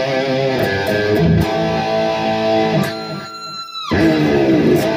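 Suhr electric guitar being played: sustained notes and chords with wavering vibrato. About three seconds in, the sound thins to a single high held note for about a second before the playing resumes.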